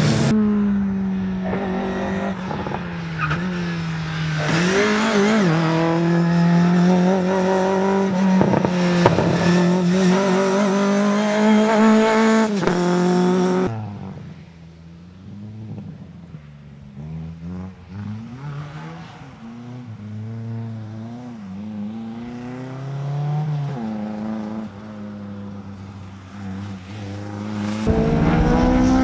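Competition car engine revving up and down hard through a slalom course, the pitch climbing and falling with each gear and corner. About halfway through it drops suddenly to a quieter, more distant car still revving up and down, and turns loud again near the end.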